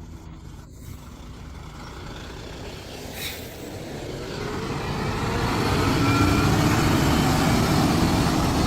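Heavy-haul semi truck's engine and road rumble, growing louder about halfway through. A brief hiss about three seconds in.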